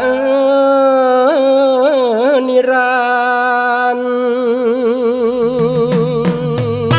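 Thai lae singer holding one long sung note, with ornamented pitch turns early on and a steady vibrato later; bass and drums of the backing band come in near the end.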